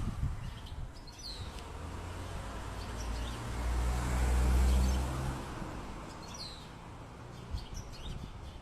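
Small birds giving short, thin, high chirps every second or two, over a low rumble that swells to its loudest around the middle and then fades.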